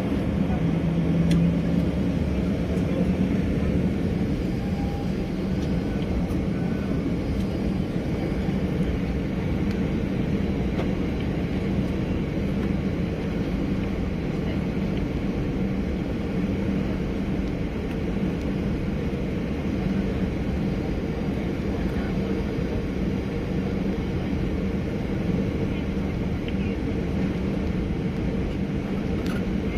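Steady cabin noise inside a Boeing 737-800 with its CFM56 turbofan engines running: a constant low rumble with a steady hum underneath.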